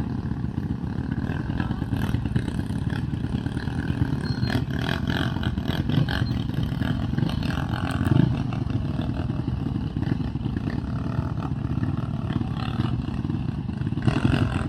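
Quad (ATV) engine running steadily while riding, with a light rattle over rough ground.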